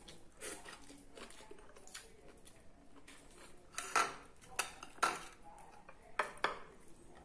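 Ceramic plates and a spoon clinking and knocking on a stone table top, with a few quiet clicks early on and a run of five sharper clinks in the second half.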